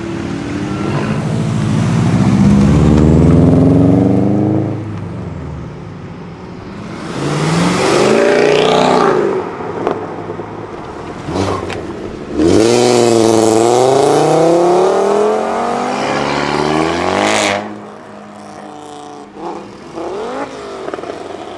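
Performance cars accelerating hard one after another, three in turn, each engine note rising in pitch through the gears with brief drops at the shifts. A few sharp cracks come between the second and third runs.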